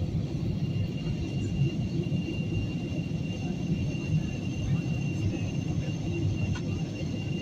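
Airliner cabin noise in flight: a steady, even rumble of engines and airflow, with a thin steady high whine above it.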